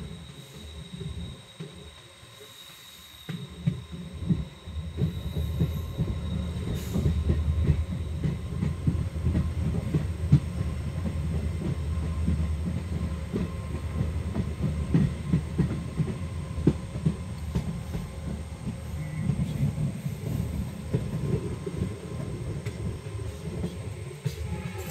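Passenger train coach running along the line, heard at its open door: a dense rumble of wheels on rail full of rapid clatter and knocks. It grows louder about three seconds in, and a faint high steady whine sits over it for the first seven seconds or so.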